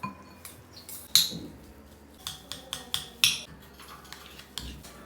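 A metal utensil knocking and clinking against cookware in a run of sharp strikes, the loudest about a second in and again about three seconds in.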